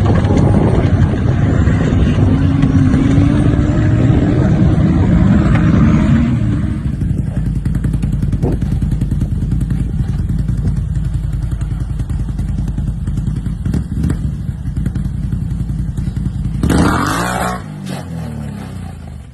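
Off-road vehicle engine revving hard, its pitch rising and falling, then running more steadily and quieter after an abrupt change about six and a half seconds in. Near the end there is a short, loud noisy burst, and the engine pitch falls away after it.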